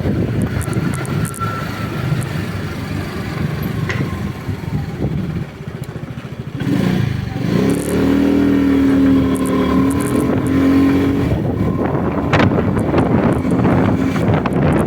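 A road vehicle's engine running on the move, with wind noise. It eases off briefly about halfway through, then picks up again and holds steady.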